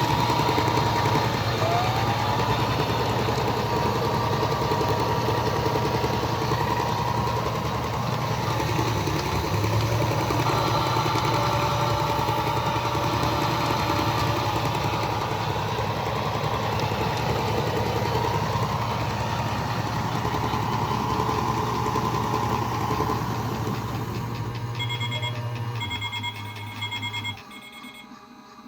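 Washing machine running with a steady motor hum and whine. Near the end a run of short electronic beeps sounds and the running noise cuts off.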